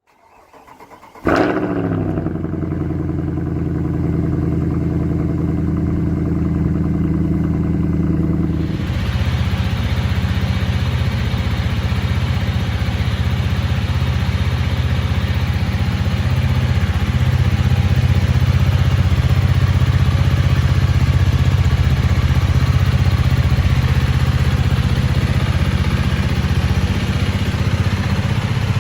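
Honda CRF300 Rally's 286 cc single-cylinder four-stroke engine starting about a second in and then idling steadily. About nine seconds in, an even hiss joins the steady engine note.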